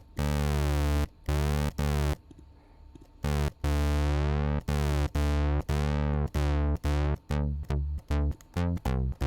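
Sylenth1 software synth playing a pulse-width-modulated bass: the same low note keyed over and over, its tone shifting as the pulse width moves. A filter envelope is being dialled in, so from about halfway each note starts bright and quickly closes down, and the notes get shorter and quicker near the end.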